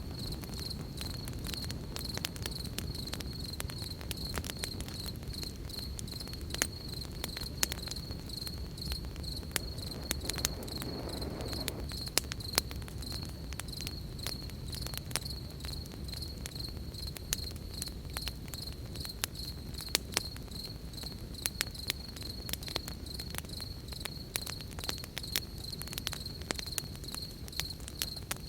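Crickets chirping in a steady, high, pulsing trill over a campfire crackling and popping with frequent sharp snaps, above a low rumble.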